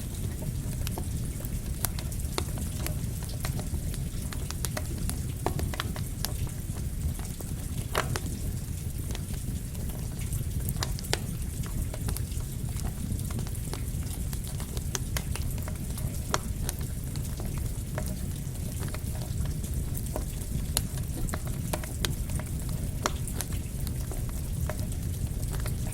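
Campfire crackling with rain falling: a steady hiss and low rumble, dotted with irregular sharp pops and snaps of burning wood.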